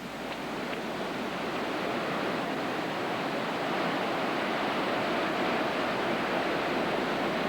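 Heavy storm surf breaking along the shore, with hurricane wind, as a continuous rushing noise.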